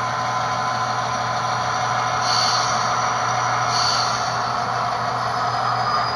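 Tsunami2 sound decoder in an HO-scale SD70ACe model locomotive playing its diesel prime-mover sound through the small onboard speaker, running steadily above idle on DC power. Two short high hisses sound about two and four seconds in.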